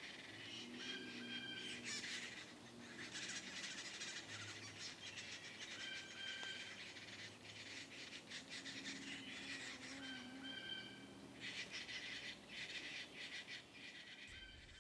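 Yellow-bellied sapsucker nestlings calling from inside the nest cavity: a faint, rapid, raspy chattering that comes in stretches of a couple of seconds, stopping and starting again several times.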